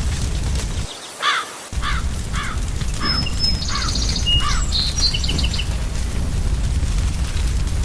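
A crow cawing about seven times in an even series, with a small bird twittering high just after. Under both runs a steady low fire rumble with scattered crackles, which drops out briefly about a second in.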